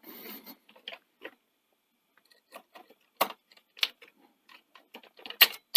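Small screws and a screwdriver being worked back into a Betamax VCR deck: a brief rustle at the start, then irregular sharp metallic clicks and ticks, the loudest about three seconds in and near the end.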